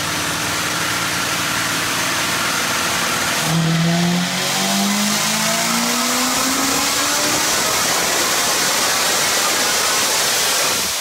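Supercharged 6.2-litre LT1 V8 of a C7 Corvette with long-tube headers and no catalytic converters, running under load on a chassis dyno. About three and a half seconds in, the engine goes to throttle and its note climbs steadily for several seconds, then stays loud with a hissing top end until it eases off near the end.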